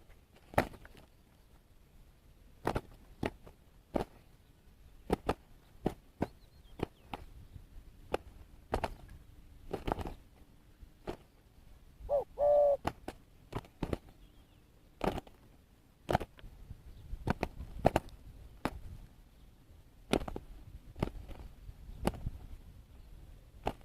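A wild dove and a decoy dove fighting, with irregular sharp wing slaps and scuffles at uneven intervals throughout. One short dove coo comes about twelve seconds in.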